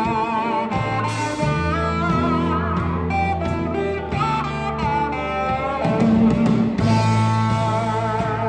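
Live Sacred Steel gospel band playing: an electric steel guitar leads with sliding, bending melody lines over a held electric bass line and drums.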